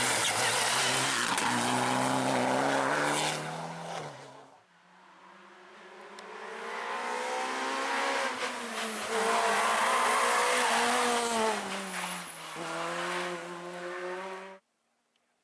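Rally car engines at high revs as the cars race along the stage: one loud run fades away about four seconds in, then a second engine note builds up, peaks with its pitch stepping through gear changes, and cuts off suddenly near the end.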